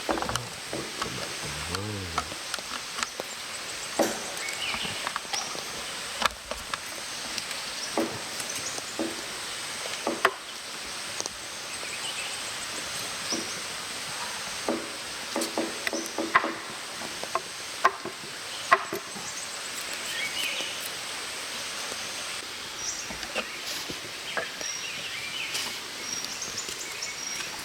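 Sticks and wood knocked and snapped while a campfire is being got going: irregular sharp knocks, a few seconds apart, over a steady outdoor hiss, with short high chirps near the end.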